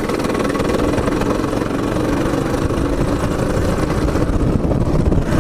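Small single-cylinder engine of a Baja mini bike running steadily at high revs on a flyby pass, its pitch easing slightly later on.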